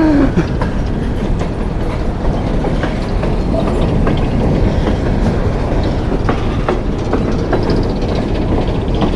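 Long coal train rolling along the track: a steady rumble of the cars with irregular wheel clicks and clatter over the rails.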